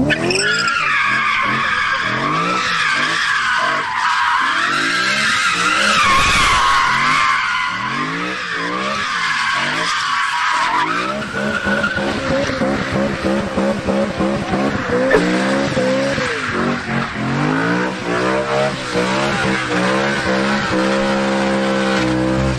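A car doing a burnout: the tyres squeal in a high, wavering note for about the first eleven seconds while the engine revs up and down. The squeal then stops, and the engine keeps revving in repeated rising and falling sweeps, held high near the end before it cuts off suddenly.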